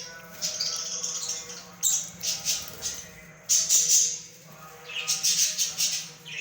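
Small cage birds squawking and chirping in four short bouts of harsh, high-pitched calls.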